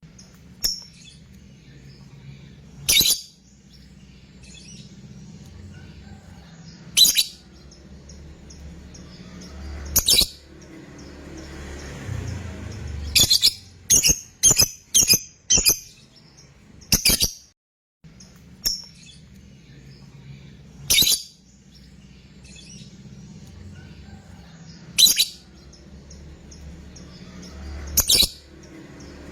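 A lovebird giving short, shrill calls every few seconds, with a quick run of about five calls in the middle, over a faint low hum.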